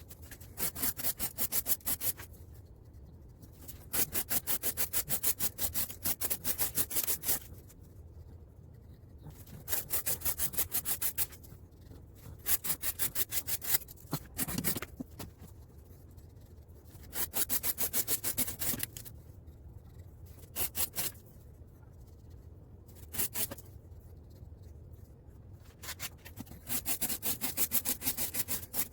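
M390 steel knife blade cut repeatedly through test material for an edge retention test: bursts of quick, rapid scraping strokes, each lasting a second or few, with short pauses between.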